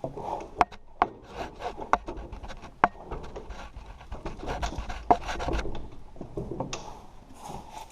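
Irregular sharp metal clicks and rubbing scrapes as a snowblower's PTO driveshaft coupler is pulled back and worked onto the tractor's splined PTO shaft while the splines are being lined up.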